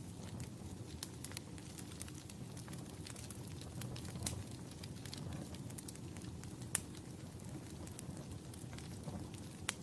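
Wood fire crackling in a fireplace: irregular sharp pops and ticks over a steady low rumble, with a few louder pops about four seconds in, about seven seconds in and near the end.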